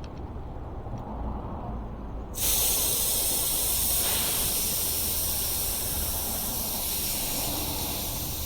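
Air hissing out of an e-bike tyre's inner-tube valve as the tyre is deflated. It starts suddenly about two seconds in and keeps up as a steady hiss, easing only slightly.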